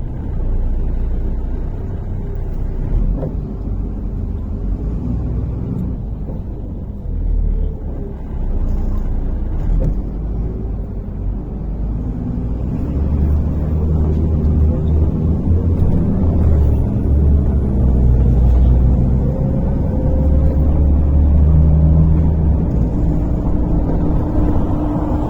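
MAZ-103 city bus heard from inside the cabin while under way: steady low engine and road rumble. About halfway through it grows louder, and a whine climbs slowly in pitch as the bus picks up speed.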